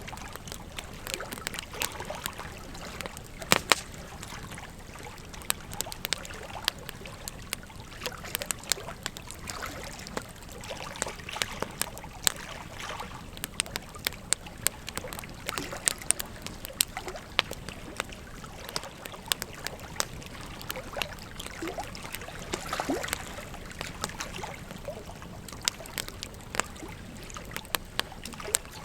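Wood fire crackling, with frequent irregular sharp pops, over the steady rush of flowing river water.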